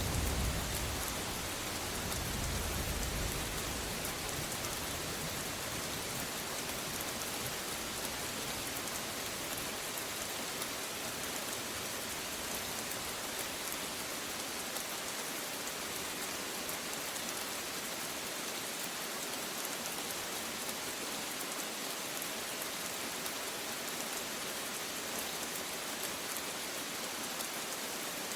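Steady rain falling, an even hiss of many drops, with the low rumble of thunder dying away over the first few seconds.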